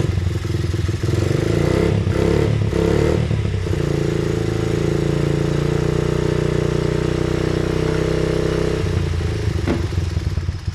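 2004 Honda CRF50's 49cc single-cylinder four-stroke engine running with no choke through an aftermarket FMF exhaust. It is blipped unevenly on the throttle for the first few seconds, then held at a steady higher speed, and the revs fall about nine seconds in. It runs but won't idle, which the owner thinks means the carburetor needs going through.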